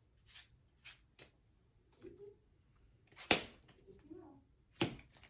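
Trading cards being handled and laid down on a play mat: a handful of short, sharp taps and snaps, the loudest a little past three seconds in.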